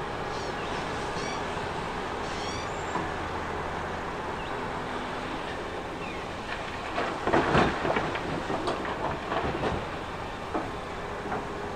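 Heavy earthmoving machine's diesel engine running steadily, with a few short high squeaks early on. A loud spell of irregular clattering and scraping comes in about seven seconds in.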